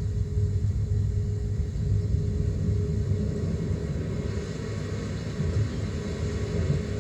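Pink noise played through a Yamaha C-80 preamplifier and M-60 amplifier into loudspeakers, heavy in the lows so that it sounds like a deep, steady rumble, with a steady mid-pitched tone running through it.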